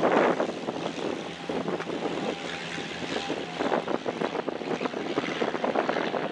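Aircraft engine noise, steady and rough, with wind on the microphone.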